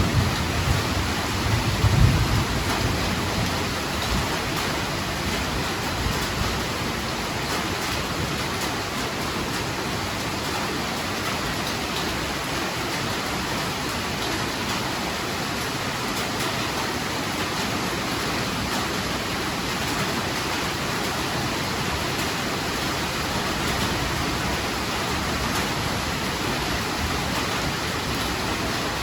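Heavy rain falling in a steady, even hiss. A low rumble of thunder dies away in the first two seconds or so.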